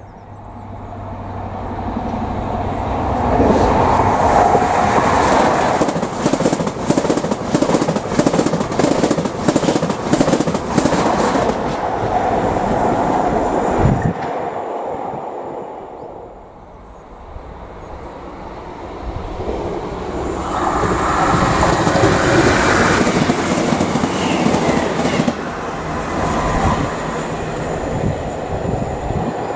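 A train passing at speed, its wheels clattering rapidly over the rails as the sound swells and then cuts off suddenly about halfway through. A second passing train then builds up and runs by.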